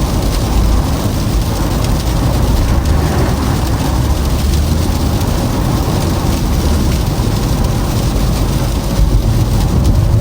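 Steady road noise inside a Toyota Camry's cabin while driving: a low rumble of tyres and engine with a continuous hiss of tyres on a snow-covered road.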